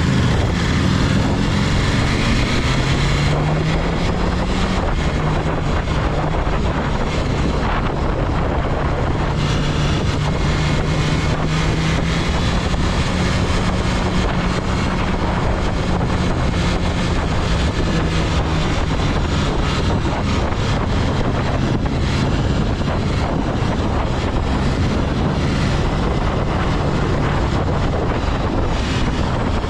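Wind rushing over the microphone while a BMW S1000RR's liquid-cooled 999cc inline-four engine runs under way. The engine note rises slightly in the first few seconds, then holds steady under the wind noise.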